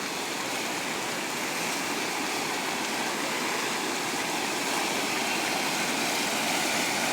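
River swollen by heavy rain, its water rushing in a steady, even wash of noise.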